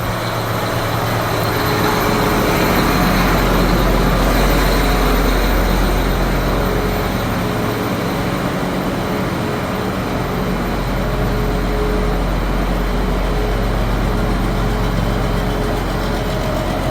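Diesel engine of a farm machine running steadily while it is driven slowly forward; the engine note swells over the first few seconds and eases slightly about seven seconds in.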